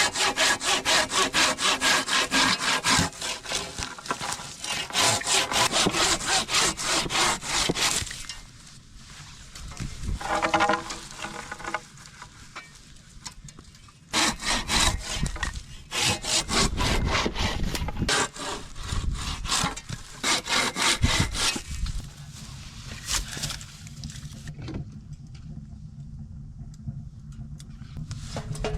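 Hand saw cutting wood in quick back-and-forth strokes. There are two bouts: one stops about eight seconds in, and another runs from about fourteen to twenty-two seconds in.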